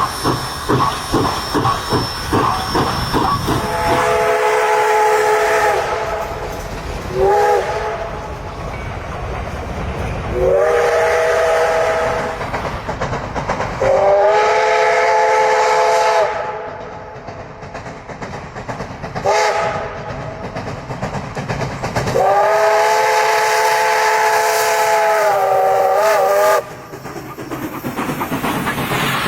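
Steam locomotive chuffing in an even beat of about three exhausts a second, then its whistle sounding six blasts with several notes at once. Four of the blasts are long and two short, the longest near the end, with steam hiss between them.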